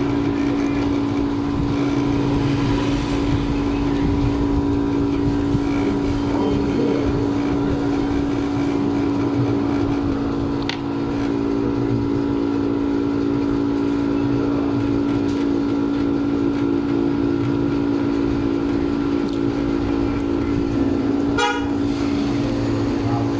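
Steady machine hum with a strong low pitch, running evenly throughout, with a single click about halfway and a quick rattle of ticks near the end.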